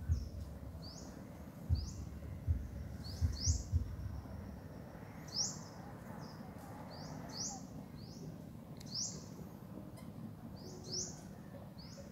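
A bird calling over and over with short, high, rising chirps, often in pairs, every second or two. A few dull low thumps come in the first few seconds.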